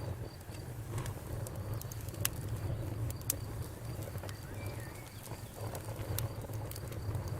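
Campfire burning, with scattered sharp crackles and pops over a low, steady rumble.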